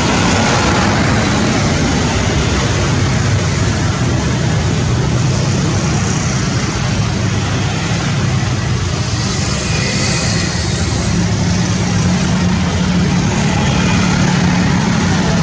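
Jet engines of a Boeing 777-300ER, General Electric GE90-115B turbofans, running as a loud, even rumble. A faint high whine rises and fades around the middle.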